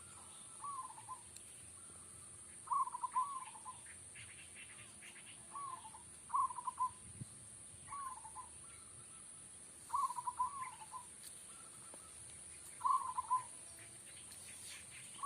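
Zebra dove (perkutut) cooing: short staccato, trilled phrases, repeated every one and a half to three seconds, over a steady high-pitched hiss.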